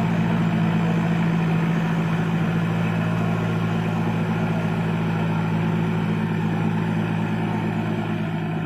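Diesel engine of a Case heavy-equipment tractor running steadily at a constant low speed, easing slightly quieter near the end.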